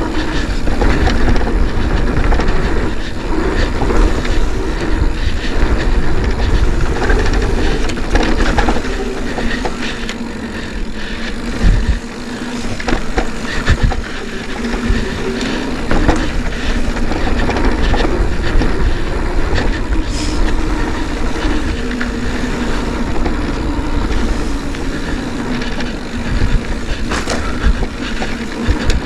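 Mountain bike rolling over a rough dirt trail: tyre noise and a steady rattle of the bike's parts, with many short clicks and knocks, over a low rumble of wind on the microphone.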